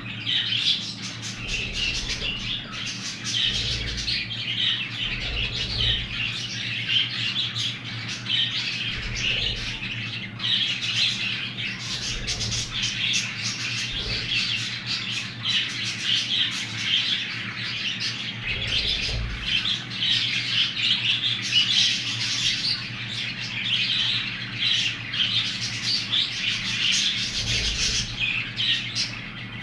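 Budgerigar chicks chirping and squawking continuously in a dense chatter, over a steady low hum.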